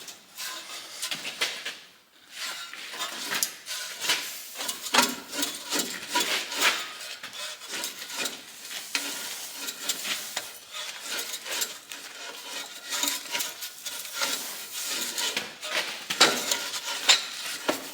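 Irregular metal scraping, rubbing and light clinks as a stuck, corroded boiler tube of a steam traction engine is worked free by hand.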